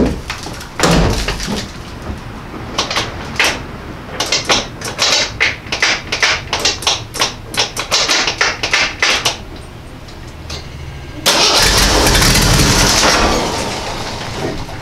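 1984 AMC Eagle wagon's engine cranked on its starter without catching: a run of uneven pulses, then a louder steady spell of cranking a little before the end. It won't fire because, apparently, no fuel is being pumped to the carburetor.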